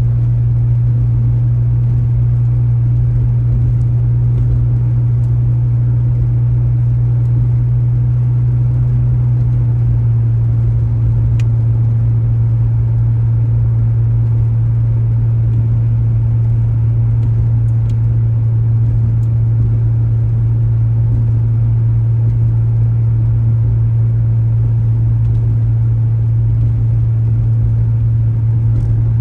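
A car driving: a steady, loud, low engine-and-road drone that shifts slightly in pitch about ten seconds in.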